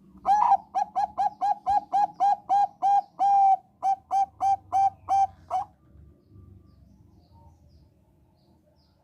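Zebra dove of the Thai 'perkutut bangkok' strain singing: a fast run of about eighteen short, clipped coos, roughly three a second, with one longer held note midway, ending about six seconds in.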